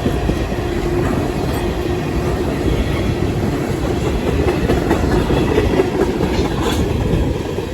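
Freight cars of a long local freight train rolling past, wheels clacking over the rail joints, with a steady rumble.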